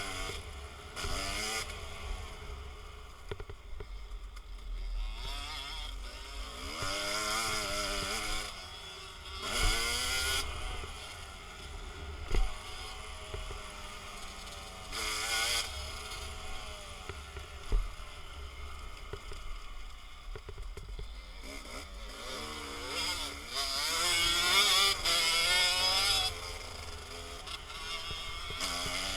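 Dirt bike engine revving up and falling off again and again as it is ridden round a motocross track, with wind rumbling on the microphone. Two sharp knocks stand out, about twelve and eighteen seconds in.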